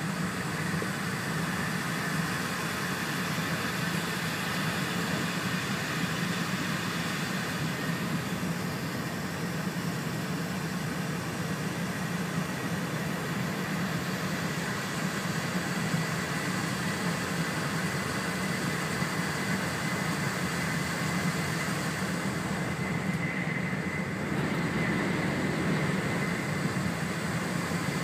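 Steady running noise inside an E4 series Shinkansen train travelling at speed: a low hum with a hiss of wheels and rushing air, a little louder from about twenty-four seconds in.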